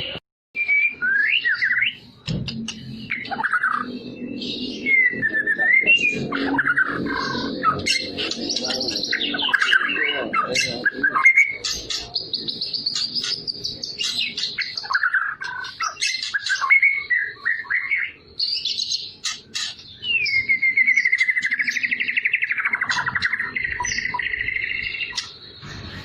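White-rumped shama (Medan murai batu) singing a long, varied song of clear whistles, rapid trills and gliding notes, with only short breaks.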